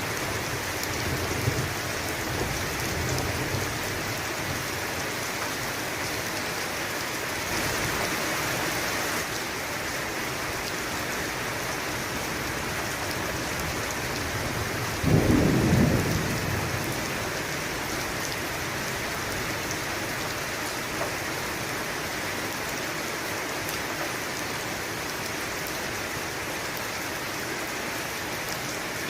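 Steady rain with thunder: a low rumble in the first few seconds, and a louder thunderclap about halfway through that rolls away over a couple of seconds.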